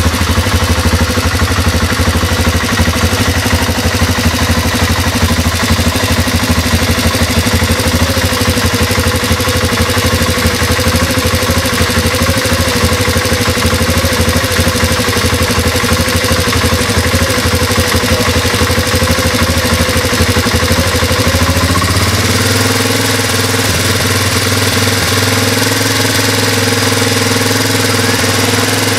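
Honda Transalp twin-cylinder motorcycle engine idling steadily. About 22 seconds in, its note shifts slightly and it runs a little quieter.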